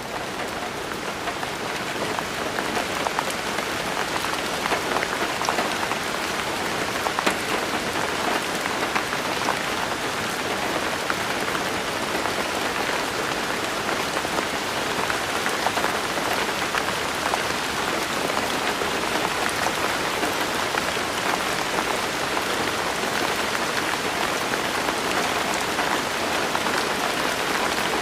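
Steady rain falling on a surface, with many separate drops heard as fine ticks. It swells over the first couple of seconds and then holds even.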